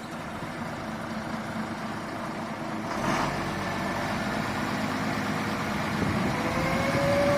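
Heavy diesel vehicle engine running steadily, getting louder about three seconds in, with a steady whine coming in near the end and climbing slightly in pitch.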